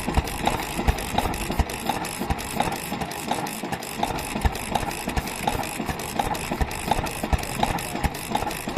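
Vintage Japanese stationary kerosene engines running at idle, their firing strokes heard as an uneven beat of sharp knocks.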